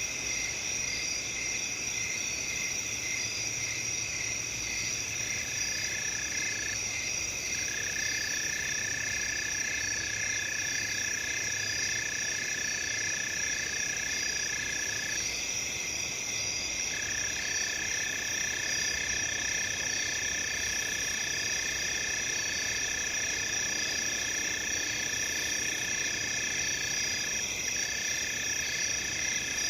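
Night chorus of crickets and other insects: several steady high trills and rapid chirping layered together, with one lower continuous trill joining about five seconds in and breaking off briefly a few times.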